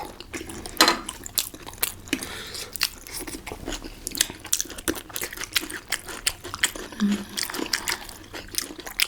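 Close-miked eating of momo dumplings: chewing and biting, with many irregular wet mouth clicks and smacks.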